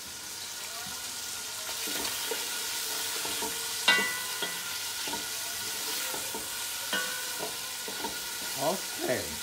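Sausage sizzling as it sautés in hot oil in a pan, stirred with a utensil that knocks against the pan a few times, the loudest knock about four seconds in.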